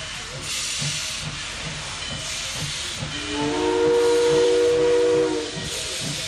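Steam locomotive letting off bursts of steam hiss, then its chime whistle sounding one long chord of several tones for about two and a half seconds, starting about three seconds in.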